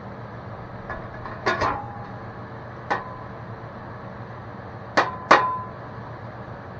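Hammer blows on metal: about six sharp knocks at uneven spacing, several leaving a brief ringing tone. The two loudest come about two-thirds of the way in.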